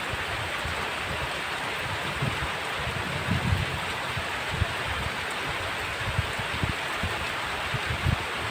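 Heavy rain falling steadily, a dense even hiss, with brief low bumps now and then.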